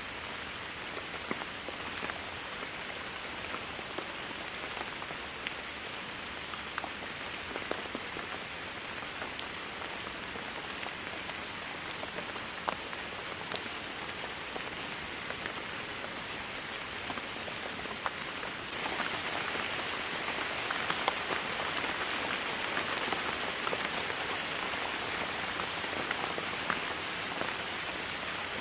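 Steady rainfall, a continuous hiss with scattered sharp ticks of individual drops hitting a surface. About two-thirds of the way through it suddenly grows louder and brighter and stays at the heavier level.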